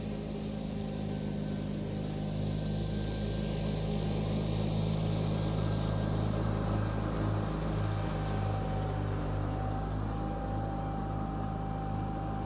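John Deere 318 lawn tractor's two-cylinder Onan engine running steadily while it mows and mulches leaves. About eight seconds in, a faint high whine comes in alongside the engine and holds steady.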